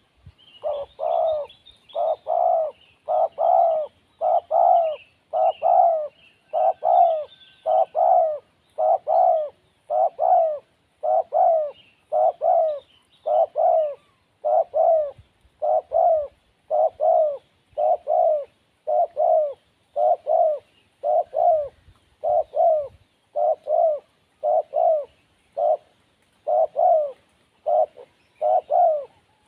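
Spotted dove cooing: a long run of short coos, about one a second. Faint chirps from small birds sound over the first several seconds.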